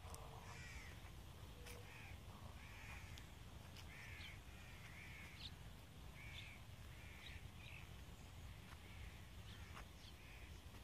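Faint bird calls, short and repeated about once a second, over a steady low rumble.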